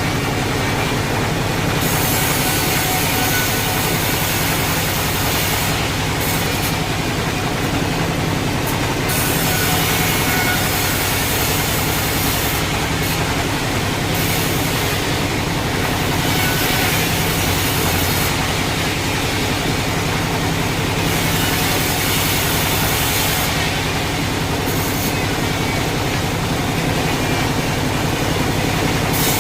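Sawmill machinery running steadily with a low hum, and a high hiss that comes and goes every few seconds.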